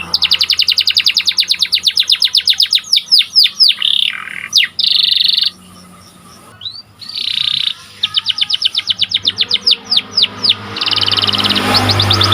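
Domestic 'panda' canary singing: long rolling trills of rapid, evenly repeated high notes mixed with sweeping slurred notes, breaking off for about a second around the middle before starting up again.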